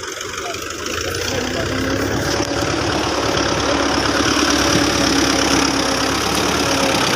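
A tractor engine running steadily, getting louder about a second in.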